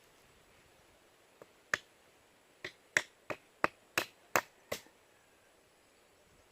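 A quick series of about eight sharp knocks, roughly three a second, between about two and five seconds in.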